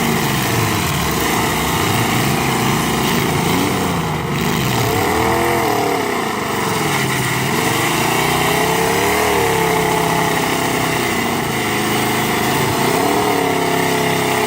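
Demolition derby car and truck engines revving up and down repeatedly, the pitch rising and falling every couple of seconds.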